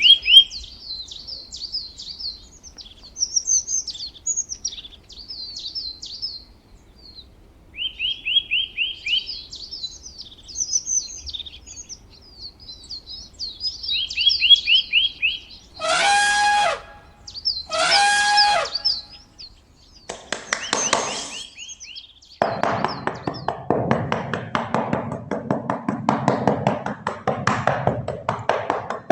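Small birds chirping and trilling again and again, with two loud one-second calls a little past the middle. From about three-quarters of the way in, a dense, rapid clattering or tapping takes over.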